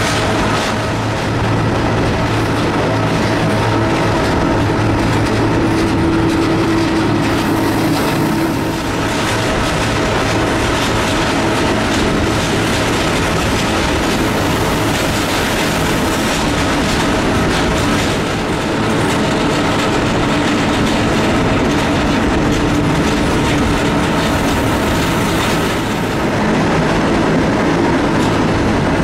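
Electric rack-railway train of the Núria line running steadily, with a constant motor hum and whine over the rumble and clicking of the wheels on the track.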